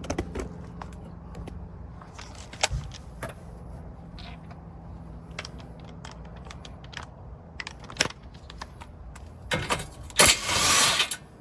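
Hand tools clinking and knocking against the suspension's metal parts in scattered sharp clicks, with a loud rattling burst about a second long near the end.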